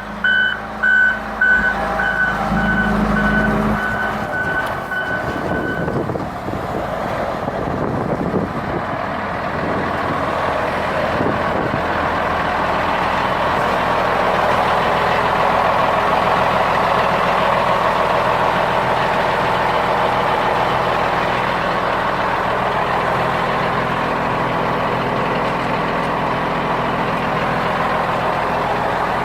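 Volvo L220D wheel loader's diesel engine running as the machine works, with its reversing alarm beeping about twice a second for the first several seconds before it stops. After that the engine and machine noise carry on steadily.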